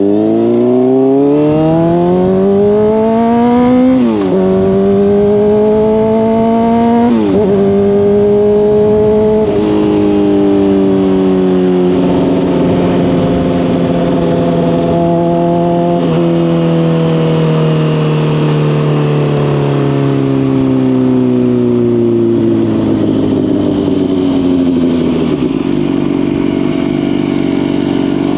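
Honda CBR600RR inline-four sport bike with a Hotbodies Stinger slip-on exhaust accelerating hard, the revs climbing and dropping sharply at three quick upshifts about four, seven and nine and a half seconds in. It then holds a steady cruise with the revs slowly falling off, and drops again near the end.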